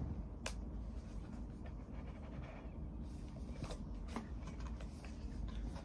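Faint handling sounds: light rustling and a few soft clicks of the box's contents being handled.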